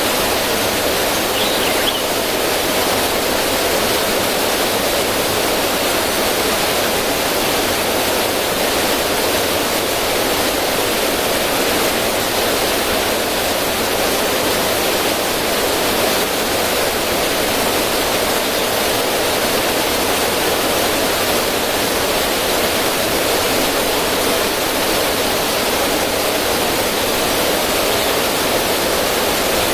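River water running and splashing over rocks in a small cascade: a steady, even rush.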